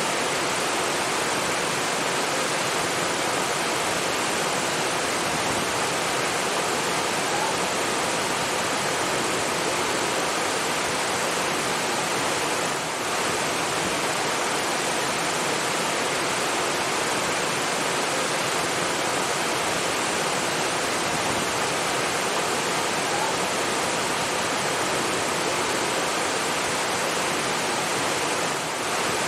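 Steady rushing water like a waterfall or fast stream, a dense even hiss with no pauses, dipping slightly for a moment twice.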